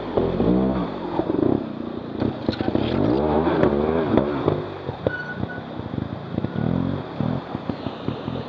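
Trials motorcycle engine revving up and down several times as the throttle is worked, with a few sharp knocks and clatter mixed in.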